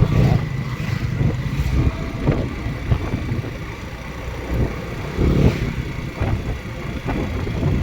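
Motorcycle coasting down a hill road, its engine and a low rumble of wind on the microphone running steadily, with a few short knocks from bumps along the way.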